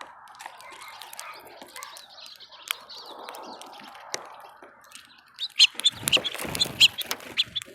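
Small birds chirping at a bird feeder, with scattered sharp clicks. From about five and a half seconds in comes a run of loud, short chirps.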